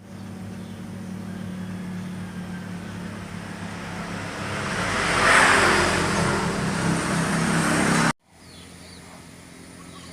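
A motor vehicle's engine and road noise growing louder as it draws near, peaking about five seconds in, then cut off abruptly about eight seconds in. A quieter outdoor background follows the cut.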